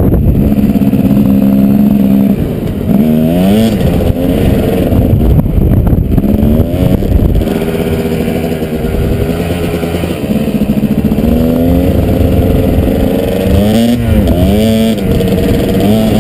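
Kawasaki KDX220 two-stroke single-cylinder dirt bike engine under way, its pitch rising and falling again and again as the throttle is opened and closed, with a steadier stretch in between.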